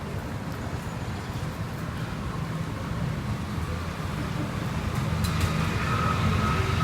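Steady rumble of passing road traffic, growing louder about five seconds in.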